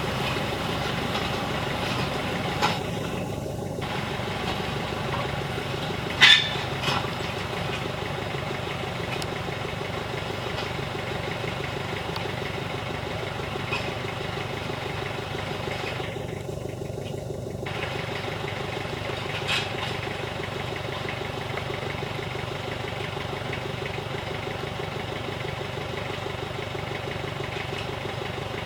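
Tractor engine running steadily under load. A few short knocks sound over it, the loudest about six seconds in.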